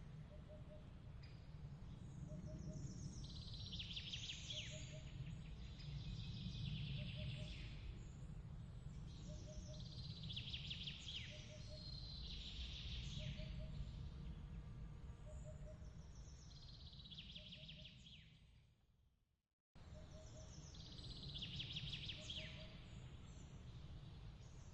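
Ambience track of birds chirping in repeated bursts over a low steady rumble, with a short double pip recurring about every second. The track fades out about 18 seconds in and cuts back in abruptly a second later, a loop seam.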